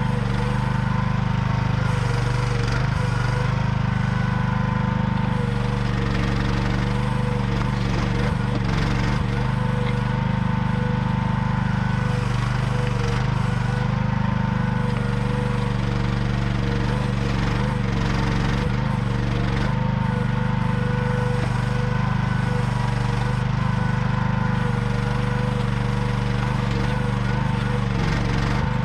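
AGT QH12R mini excavator's engine running steadily, with a steady whine above the engine note.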